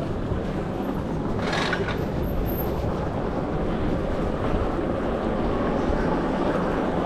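Wind rushing over the microphone on a moving e-bike, with a steady low rumble from the ride. There is a brief hiss about a second and a half in.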